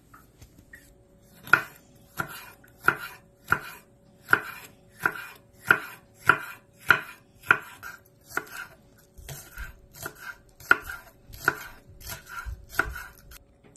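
Knife chopping vegetables on a cutting board: steady cuts about one and a half a second, growing lighter and less regular near the end.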